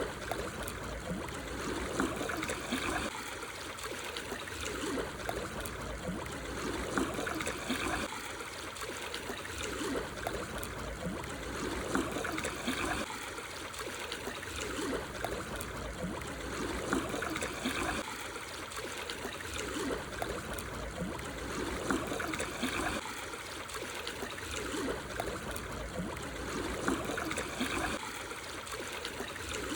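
Small, calm sea waves washing in over black stones on the shore, a fizzing, trickling wash that swells and ebbs about every five seconds.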